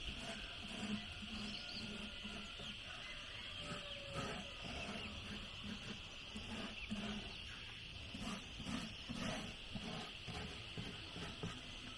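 Short, low animal calls repeating about twice a second over a steady, high insect drone.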